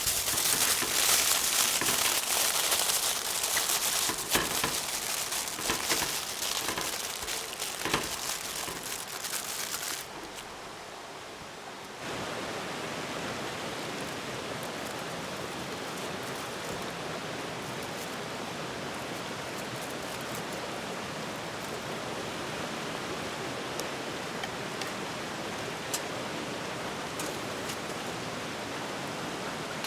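Crackling with many sharp pops and snaps for about ten seconds. After a brief quieter gap, a steady, even rushing hiss follows.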